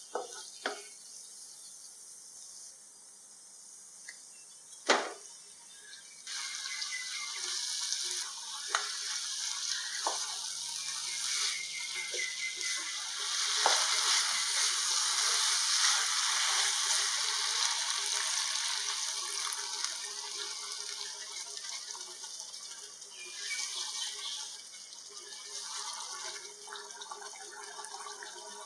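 Curry masala and chicken frying in a non-stick pan, stirred with a wooden spatula, with a few sharp knocks in the first seconds, the loudest about five seconds in. A sizzle starts about six seconds in, is loudest in the middle and then eases off, swelling briefly again near the end.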